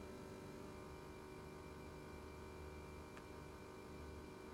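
Near silence: faint room tone with a steady low electrical hum, and one faint click about three seconds in.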